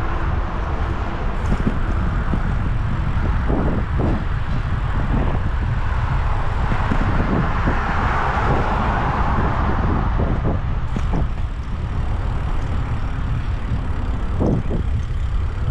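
Wind rumbling on the microphone of a moving bicycle, mixed with road and traffic noise. A few short knocks sound, and a broader swell of noise builds and fades around eight to nine seconds in.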